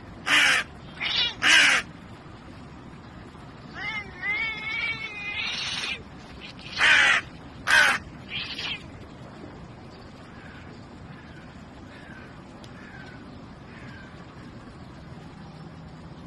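Harsh animal calls: three loud rasping calls near the start, then a wavering pitched call, then three more harsh calls, followed by a few faint short chirps.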